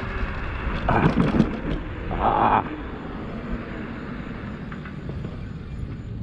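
Steady wind and road noise from riding an electric bike, with a short loud burst of sound about a second in and a brief hiss about two seconds in, then quieter, even rolling noise.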